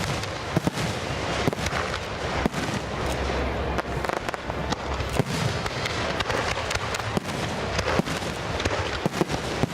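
Fireworks display: a rapid, irregular string of sharp bangs and crackles over a steady hiss.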